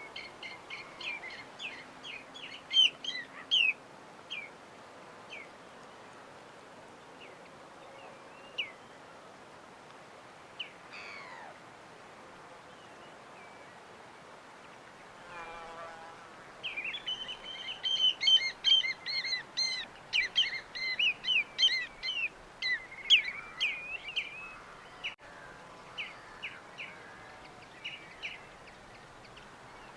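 Small birds chirping in quick high twitters over a steady background hiss, scattered at first and building into a dense burst of chirping about halfway through.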